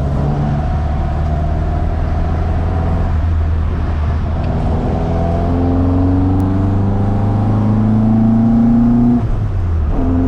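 1975 Ford Mk1 Escort rally car's engine pulling under acceleration, its revs climbing steadily for several seconds and then dropping suddenly about nine seconds in.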